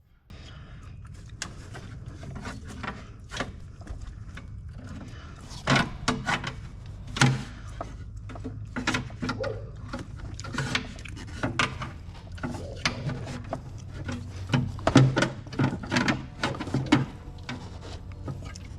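Irregular clicks, knocks and rubbing of metal tubing being handled and bent by hand, over a steady low hum.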